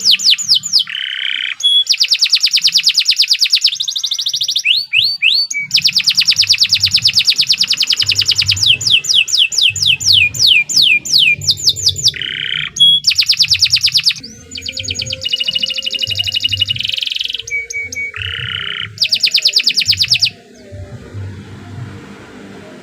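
Domestic canary singing a long song of fast trills and rapid runs of repeated notes, changing from one phrase to the next with brief pauses between phrases. The song stops about twenty seconds in.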